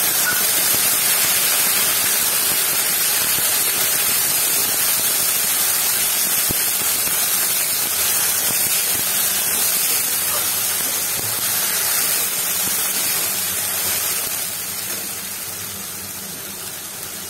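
Wet tomato and garlic paste sizzling in hot oil with onions in a kadhai, a loud steady hiss that gradually dies down over the last few seconds.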